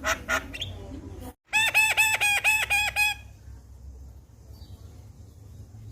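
Javan myna calling: a run of harsh, clicking calls, then after a brief break a quick string of about ten identical ringing notes, about six a second, before it falls quiet.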